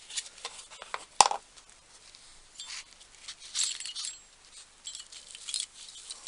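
Small metal collets clinking and tapping as they are handled, with one sharp click about a second in and brief rustling in between.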